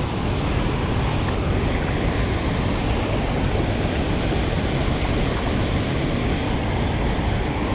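Loud, steady rush of heavy water released through a dam.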